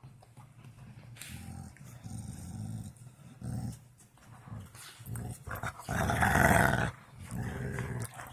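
A dog growling in a series of low bursts, with a louder one about six seconds in.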